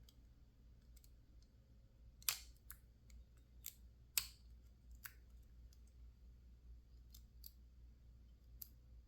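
Faint metallic clicking of a lock pick and tension wrench working the pins inside a PacLock 410 Pro padlock: two sharper clicks a couple of seconds apart among a handful of fainter ticks, as tension is eased to check for an overset pin in a false set.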